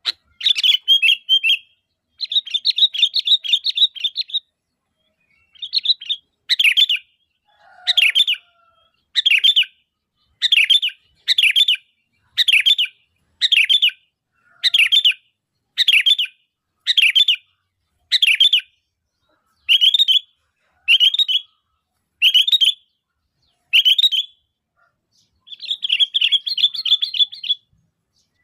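Sooty-headed bulbul calling: short bubbly phrases repeated about once a second, with longer chattering runs at the start and again near the end.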